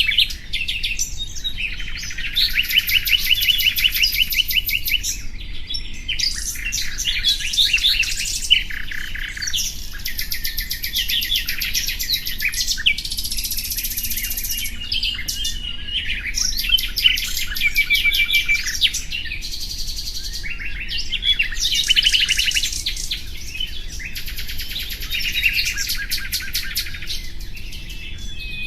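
Common nightingale singing: a run of varied phrases, many of them fast-repeated notes and trills, separated by short pauses.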